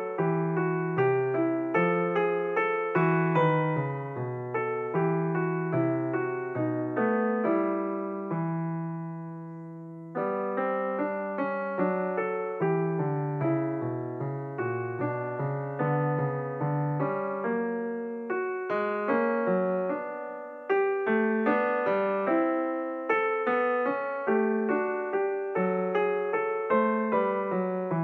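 Background piano music: a steady run of picked-out notes over low chords, with a held chord fading away about eight seconds in before the playing picks up again.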